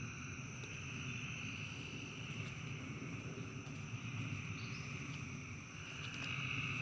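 Steady insect chorus, a continuous high trill of crickets, with a fainter low rustle underneath.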